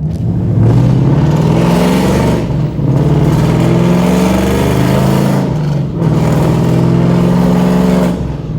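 Ford Mustang 5.0-litre V8 accelerating hard through the gears from inside the car, loud. The engine note climbs, drops at an upshift about two and a half seconds in, climbs again, and drops at a second shift after about five and a half seconds before pulling up once more.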